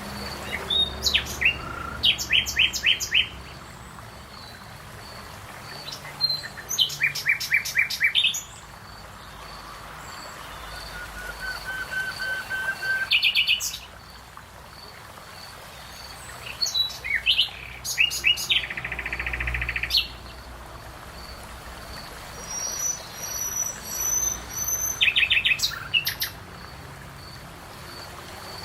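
Songbirds singing: short phrases of rapid high trills and chirps come every few seconds. A faint, steady, high repeated note sits underneath.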